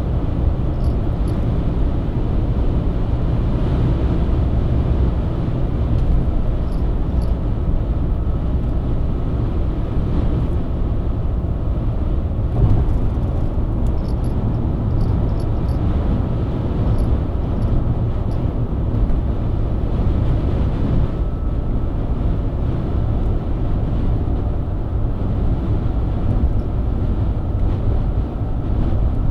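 BMW E90 323i's inline-six engine running steadily at highway cruising speed, with constant tyre and road rumble.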